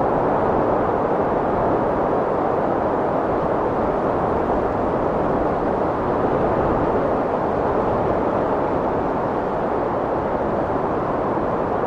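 Strong wind blowing: a steady, deep rushing noise that holds an even level, with no gusts or other sounds breaking through.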